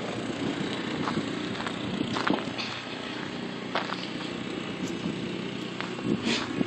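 Snowblower engine running steadily in the distance, with occasional crunches in the snow close by.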